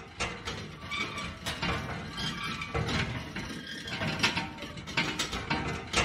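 Windmill's turning mechanism clicking and clattering irregularly, a run of mechanical knocks and ratchet-like clicks.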